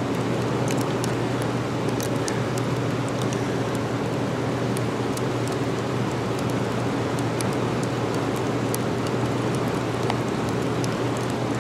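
Freezing rain falling steadily, with many small sharp ticks of drops striking nearby surfaces, over a constant low hum.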